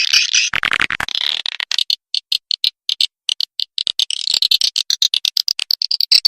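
Swiftlet calls from a swiftlet-house lure recording: dense, rapid trains of high chirps and dry ticking clicks. A louder buzzy chatter comes about half a second in.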